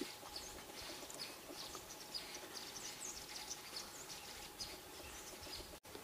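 Faint chirps of small birds, many short high calls scattered throughout, over a quiet forest background; the sound cuts out for a split second near the end.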